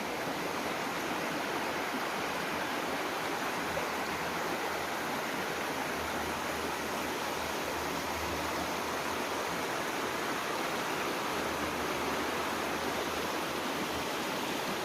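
Mountain river flowing, a steady even rush of water.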